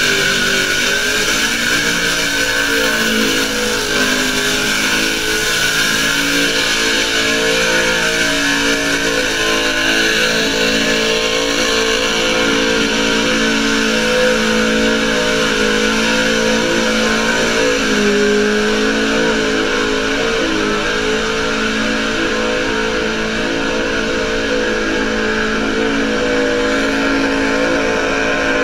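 Burnout car's engine held at high, steady revs through a long skid, its pitch wavering only slightly, over a steady broad hiss of spinning tyres.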